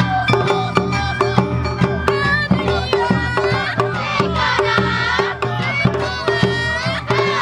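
Awa Odori festival music: a hayashi band of taiko drums beating a steady rhythm, with bamboo flutes playing a wavering, sliding melody over it.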